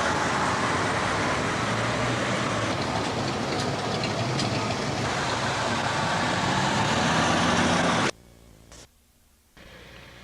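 Steady outdoor noise with a low rumble, like road traffic, that cuts off abruptly about eight seconds in, leaving only faint hiss.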